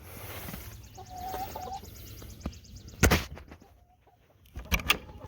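Backyard hens clucking with short calls about a second in. A loud sharp thump comes about three seconds in, and a few quick clatters near the end.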